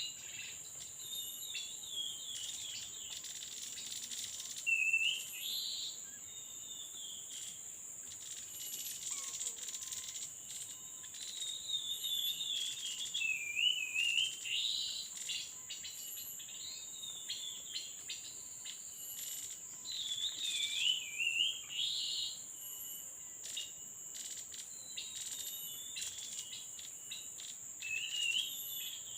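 Short warbling bird calls recurring every few seconds, over a steady high-pitched drone of forest insects.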